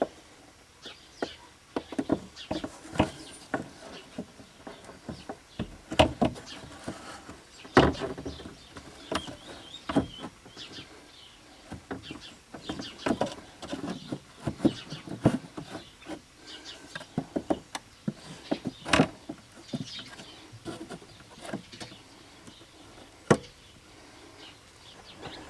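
Irregular clicks, clanks and knocks of hand tools and metal parts being handled while a replacement wiper motor is fitted, with a few sharper, louder knocks spread through.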